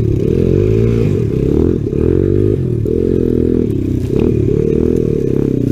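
Honda XR100 dirt bike's small single-cylinder four-stroke engine being ridden hard, its revs rising and falling again and again as the throttle is worked.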